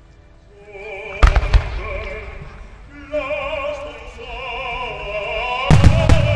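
Aerial firework shells bursting with sharp booms, a pair about a second in and a louder cluster near the end. Under them runs music with an operatic singing voice.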